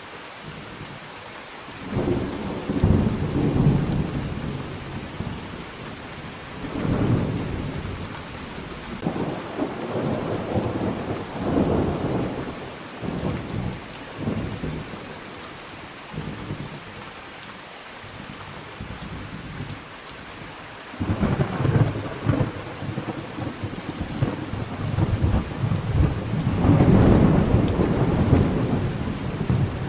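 Thunderstorm: steady rain with rolling thunder that rumbles up again and again, the longest peals about two seconds in, just after twenty seconds, and near the end.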